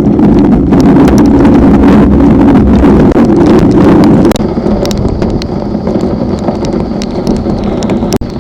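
Strong thunderstorm wind buffeting the microphone in loud, rumbling gusts, with many small ticks and knocks mixed in; the gusting eases somewhat about four seconds in.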